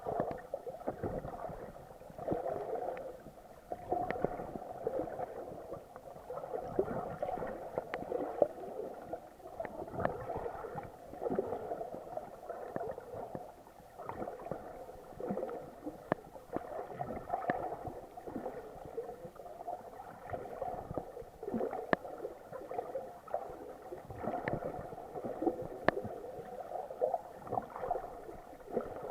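Muffled gurgling and sloshing of water heard through an action camera's waterproof housing during snorkeling, rising and falling irregularly with small clicks and bubble pops.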